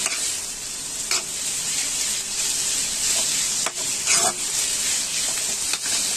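Chicken mince frying in oil in a kadhai, sizzling steadily while a spatula stirs and scrapes it through the pan. A few sharper scrapes stand out, the loudest about four seconds in.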